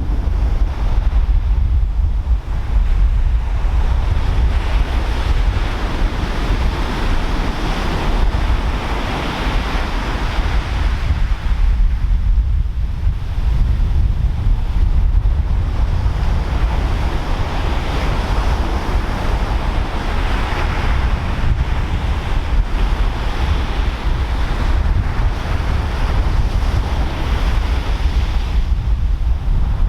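Pacific Ocean surf breaking, a rushing wash that swells and fades about every nine seconds. Strong wind buffets the microphone with a constant low rumble.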